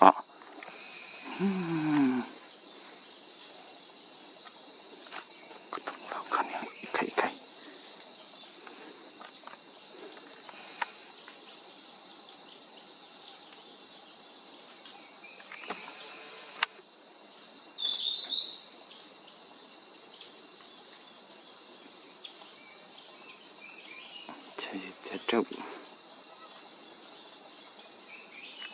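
Insects, likely crickets, keeping up a continuous high-pitched buzz that holds steady without a break, with a few brief faint vocal sounds over it.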